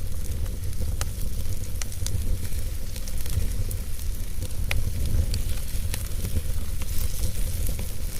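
Fire burning in a fireplace, crackling with scattered sharp pops over a steady low rumble of the flames.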